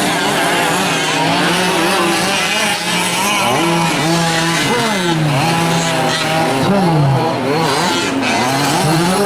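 Several 5th-scale gas RC trucks' small two-stroke engines racing, each revving up and dropping back again and again, their pitches overlapping.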